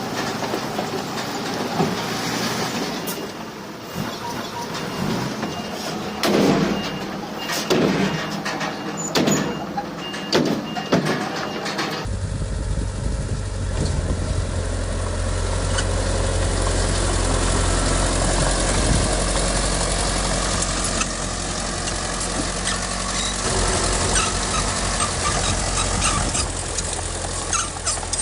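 Heavy diesel earthmoving machinery running, with several loud metallic clanks a few seconds in, then, after a cut, a steady deep diesel engine drone.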